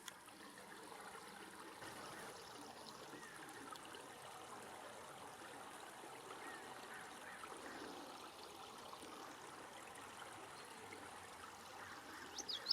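Faint steady flow of creek water trickling.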